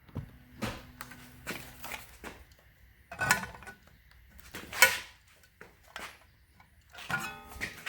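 Scattered knocks and clicks of tools and metal being handled, two of them sharper, about three and about five seconds in, over a faint hum in the first two seconds.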